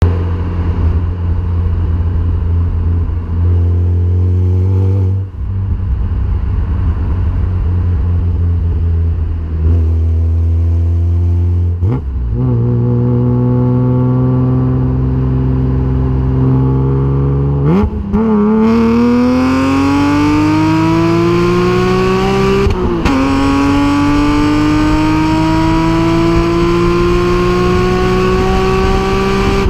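BMW E36 M3 3.2 straight-six running through a homemade exhaust. It first holds a steady low engine note, then accelerates, the pitch climbing through the gears with upshifts about 18 and 23 seconds in.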